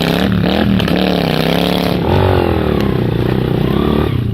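Motorcycle engine running under way on a dirt trail. Its pitch wavers with the throttle in the first second, drops about two seconds in, then climbs again.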